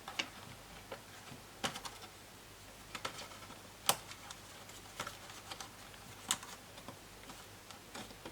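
Irregular light clicks and taps of hands handling a laptop's plastic casing and internal parts during disassembly, the sharpest about four seconds in.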